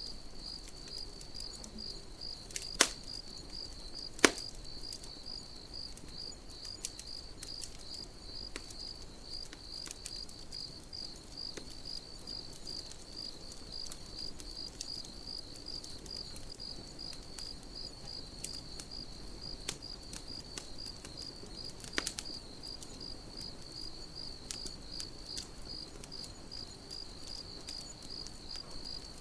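Campfire crackling with scattered sharp pops, the loudest about three and four seconds in and again near the end, over crickets chirping in a steady, regular pulse.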